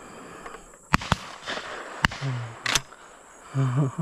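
Shotgun shots at doves: four sharp reports within about two seconds, the first two loudest and close together, with a voice calling out briefly between and after them.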